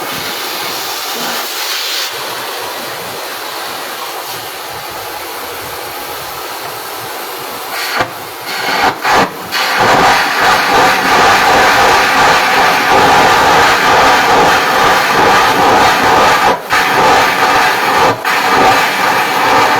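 Stick arc welding: the electrode's arc hissing and crackling. It gets louder and fuller from about ten seconds in, with brief breaks in the arc just before that and twice near the end.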